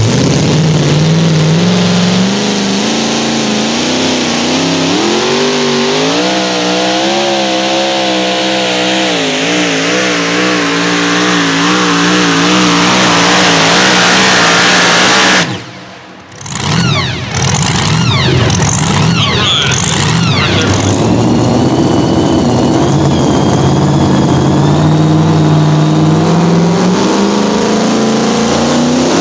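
Pulling vehicle's engine running hard at full throttle under load, its pitch climbing and wavering. About halfway through the sound cuts out abruptly for about a second, then engine sound returns and climbs steadily again.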